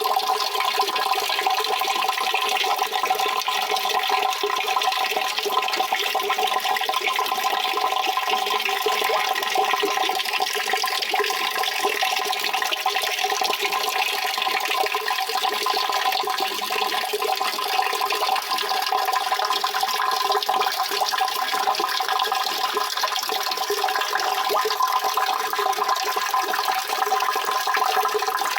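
Water running in a steady, unbroken rush.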